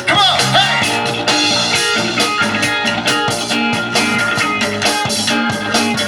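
Live rock-and-roll band playing an instrumental passage, with a guitar lead bending notes in the first second over bass and drums.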